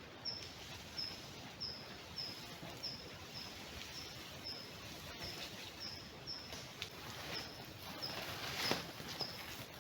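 A bird calling, one short high note repeated steadily about twice a second, over faint forest background, with a few soft rustles or knocks near the end.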